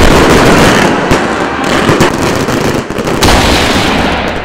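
Fireworks display: dense crackling and popping from bursting shells and rising comets, with a fresh loud surge about three seconds in, then dying down near the end.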